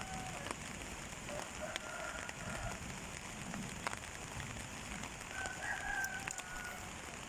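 Steady rain during a summer thunderstorm, with scattered drip ticks. A rooster crows twice in the background, each crow lasting about a second.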